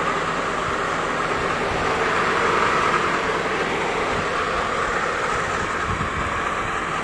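1998 Honda Accord's F23 four-cylinder engine running steadily after a general overhaul, an even hum with no single loud knock standing out.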